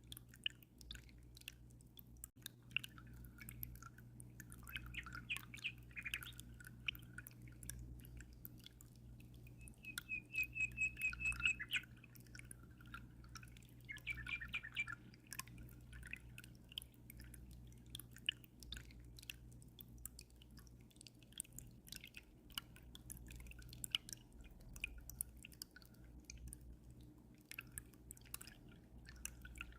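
Aquarium water dripping and trickling in small scattered splashes over a steady low hum, while a small bird chirps a few times, with one quick high trill about ten seconds in.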